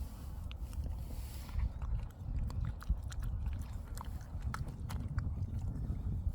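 A dog chewing and crunching on bread it has just been handed, a run of small irregular clicks and crackles, over a low rumble of wind on the microphone.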